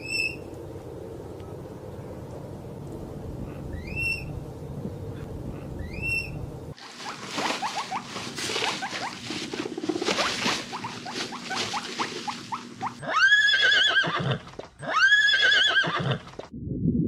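Animal calls: first three short chirping calls over a low background rumble, then a long fluttering, noisy call, then two loud arched cries a little over a second apart.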